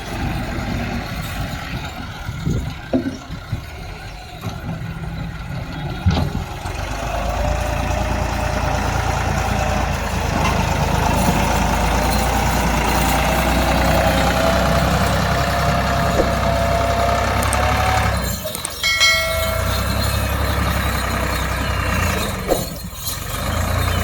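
Massey Ferguson 260 tractor's three-cylinder diesel engine running steadily, growing louder about six seconds in, with a brief break near the end.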